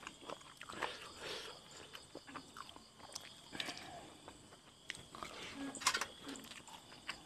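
Close-mic chewing and lip smacks of a person eating buffalo-skin tom yum with sticky rice: irregular soft clicks and wet smacks, a few louder ones near six seconds in.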